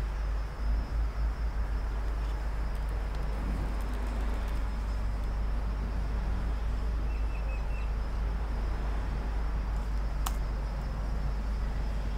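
Steady background noise with a low hum, and a single sharp click about ten seconds in.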